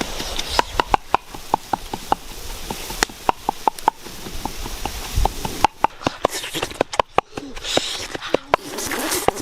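An irregular series of sharp knocks, about two or three a second, each with a short ring, like a blade striking something hard.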